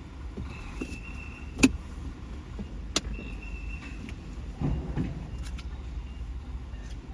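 Scania cardboard recycling truck's diesel engine running steadily, with two sharp bangs about a second and a half apart, the first the loudest, each preceded by a brief high whine, then a couple of duller thumps about five seconds in.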